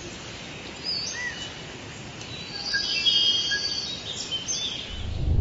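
Birds chirping and whistling, several short curved calls, over a steady hissing nature background. A low rumble swells in at the very end.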